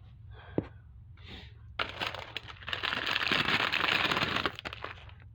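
Plastic packaging crinkling and crackling as it is handled, with many small clicks, for about three seconds starting about two seconds in.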